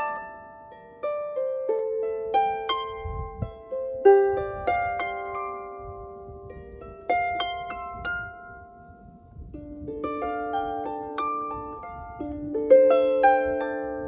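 Harp being played: plucked notes, each ringing and slowly fading, overlapping in unhurried melodic phrases.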